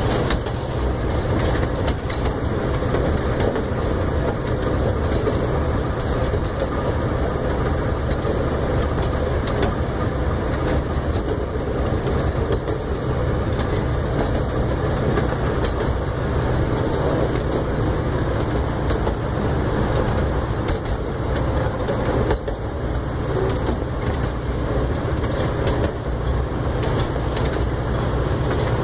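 Miniature ride train running along its track, heard from aboard: a steady rumble and rattle with many small wheel clicks on the rails.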